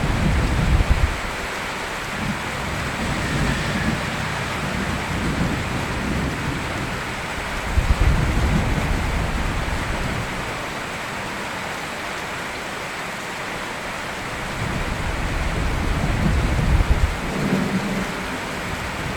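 Steady heavy rain with thunder: three low rolling rumbles, near the start, about eight seconds in, and near the end.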